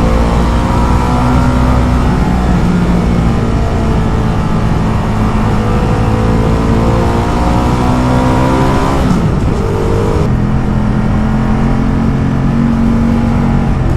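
Ducati Multistrada motorcycle engine pulling, its pitch slowly rising for about nine seconds, then dropping at a gear change and running steadily, over wind and road noise.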